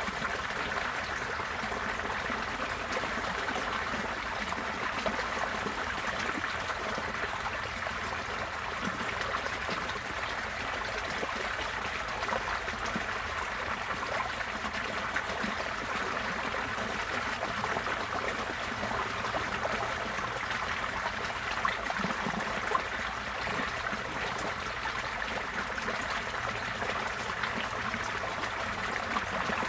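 Receding floodwater flowing steadily like a stream, with a continuous rushing and trickling.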